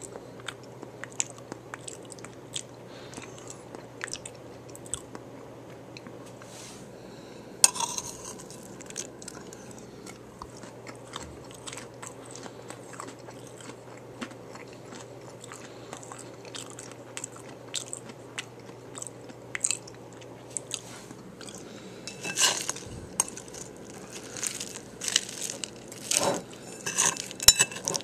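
A person chewing a taco bowl close to the microphone: chewing with scattered crunches of the hard tortilla shell. There is one sharp crunch about eight seconds in, and the crunches come thicker and louder in the last several seconds.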